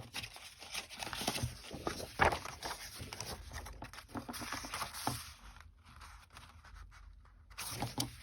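Paper being handled on a craft table: rustling and crinkling with a few sharp taps and clicks, the loudest about two seconds in, quieter in the last couple of seconds.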